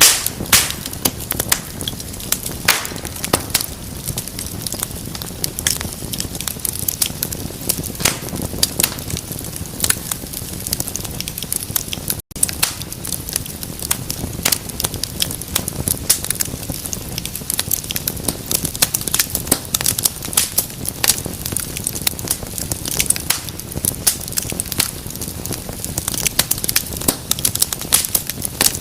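Fire burning in a fireplace, crackling and popping continually with many sharp snaps over a low, steady rumble of flame. There is a momentary gap in the sound about twelve seconds in.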